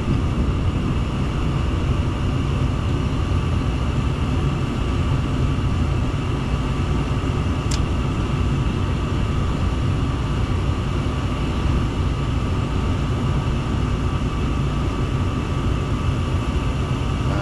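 Gas furnace firing on a heat call: burners lit and the motor running with a steady low rumble and a faint steady whine, the blower not yet running. A single light tick about eight seconds in.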